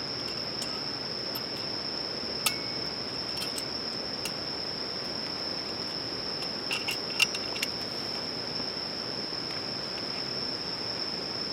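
Insects trilling in one steady high note, with a few sharp clicks and ticks, a small cluster of them about seven seconds in.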